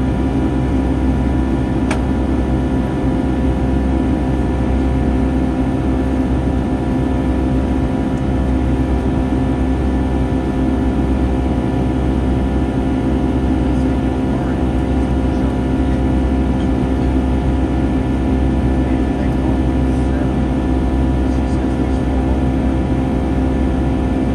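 Steady jet engine drone and airflow rumble of a Boeing 757-300 in flight, heard inside the passenger cabin, with several steady humming tones over a deep roar.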